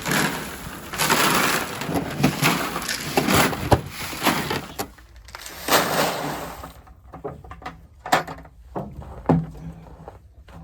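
Crunching and cracking of icy snow in uneven stretches, giving way after about seven seconds to a run of sharp separate snaps.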